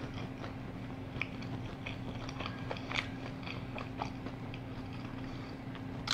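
A person chewing boneless chicken wings with the mouth closed: quiet, wet mouth clicks at irregular intervals over a steady low hum.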